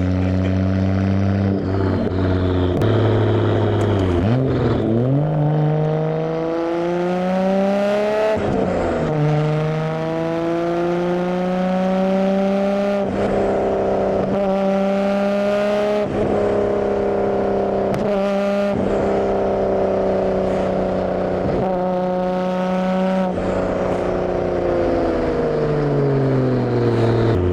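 Nissan Skyline R32 GT-R's twin-turbo straight-six exhaust note while driving: the engine pitch climbs and drops sharply at gear changes about four and eight seconds in, holds fairly steady through the middle, and falls away near the end as the car slows.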